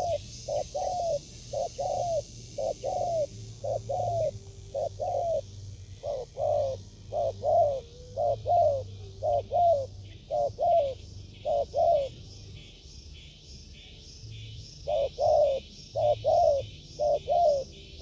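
Spotted dove cooing: runs of short, arched coo notes repeated quickly, with a pause of about three seconds before the calling starts again.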